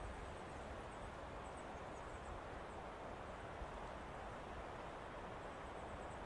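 Steady forest ambience: an even rush of wind through trees with a low rumble under it, and a few faint, high bird chirps between about one and three seconds in.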